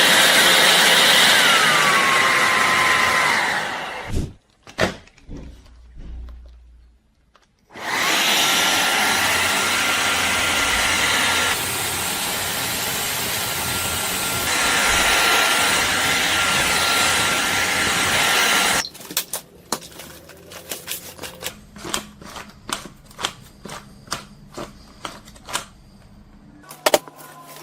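Shark Detect Clean & Empty cordless vacuum running with a whine that drops in pitch, then cutting off about four seconds in. It starts again about eight seconds in and runs steadily with a high whine for some ten seconds before stopping. A series of light clicks and knocks follows.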